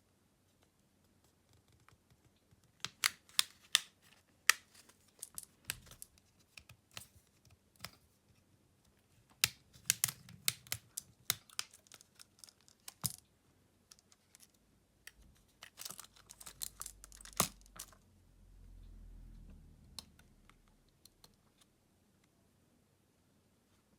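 Scattered sharp clicks and light taps of small repair tools against a smartphone's plastic and metal parts during disassembly, coming in three short flurries. A soft low rumble follows near the end.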